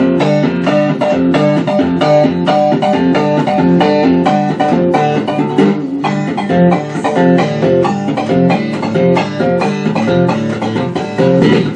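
Jackson electric guitar with EMG pickups played through an amplifier: a fast, continuous run of single picked notes, several a second, without a break.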